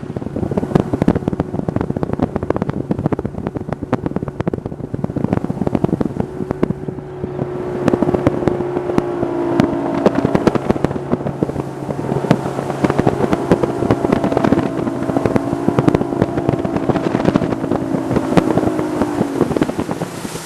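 A boat's outboard motor running at speed, its steady drone shifting in pitch now and then, with wind buffeting and crackling over the microphone.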